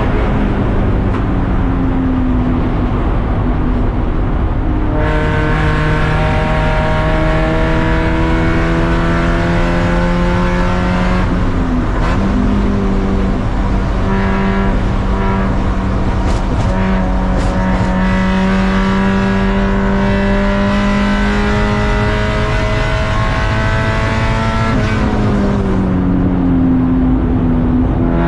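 Race car engine heard from on board, pulling hard under full throttle. Its note climbs slowly through a long stretch, breaks once for an upshift about twelve seconds in, then climbs again before dropping sharply near the end as the driver lifts off.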